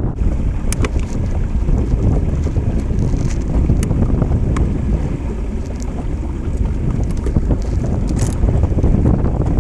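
Strong wind buffeting the microphone, a heavy, steady low rumble, with a few sharp clicks or taps scattered through it.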